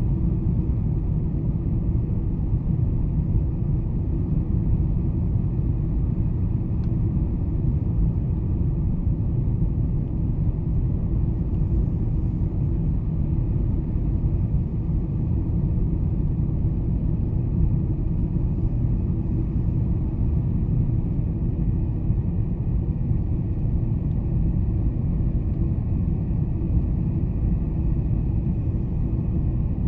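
Boeing 747-400 engine and airflow noise heard inside the passenger cabin: a steady low rumble with a faint high hum above it.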